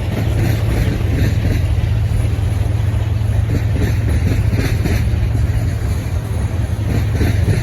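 Freight train rolling past: a steady low rumble with a rhythmic clatter of wheels on the rails.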